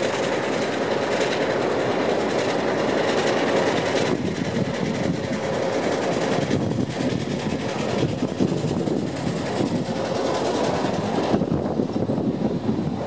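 A passenger train passing close by: the carriages' wheels click and rumble over the rails, and the 44 class ALCO diesel-electric locomotive's engine is heard as the locomotive draws near. A faint steady tone comes and goes over the noise.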